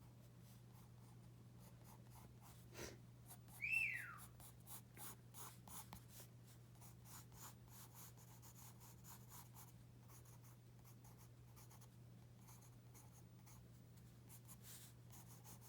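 Pencil scratching on paper in quick short strokes. About four seconds in, a pet parrot gives one brief chirp that falls in pitch.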